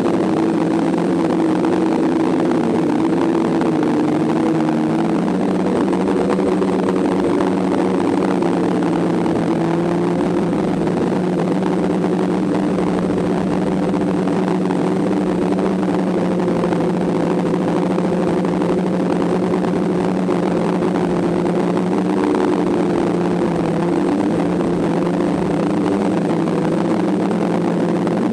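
DJI F550 hexacopter's electric motors and propellers running steadily in flight: a loud multi-tone whir whose pitches drift a little as the motors adjust speed.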